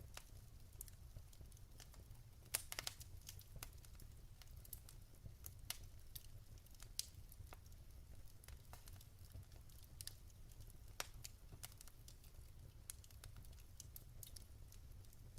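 Burning logs in a fireplace crackling quietly: scattered sharp pops and snaps over a steady low rumble, the loudest pop about two and a half seconds in.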